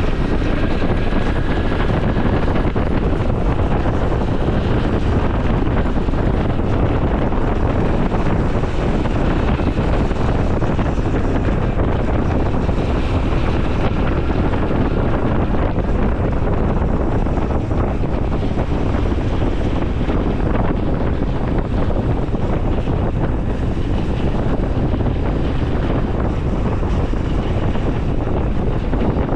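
Honda CT125 Hunter Cub's single-cylinder engine running under way, buried in heavy wind noise rushing over the microphone. The sound is steady and loud, with no pauses.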